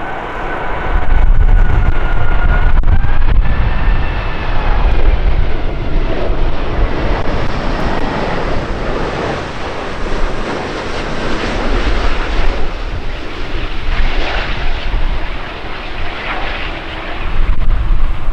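Airbus A380 jet engines sounding overhead, a whine that bends in pitch during the first few seconds over a heavy low rumble. The loudness rises and falls with gusts of strong wind on the microphone.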